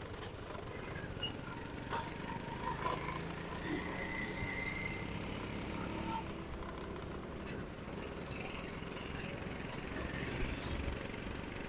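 Motorcycle engine idling among road traffic, a steady low hum, with a short hiss about ten seconds in.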